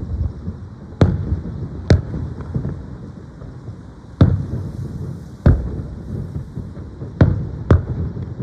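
Aerial firework shells bursting: six sharp booms in uneven succession, two close pairs among them, over a continuous low rumble.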